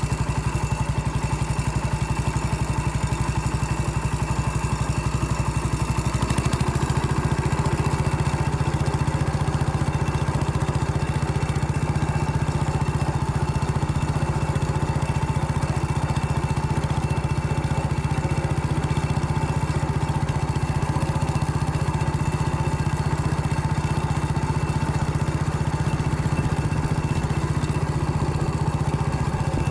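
Vehicle engine running steadily under way. About six seconds in its note steps up a little and gets slightly louder, then holds.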